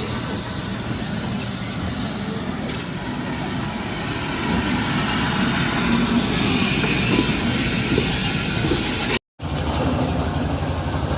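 Engines of vehicles in a parade running steadily, with a few short clinks. The sound drops out completely for a moment about nine seconds in.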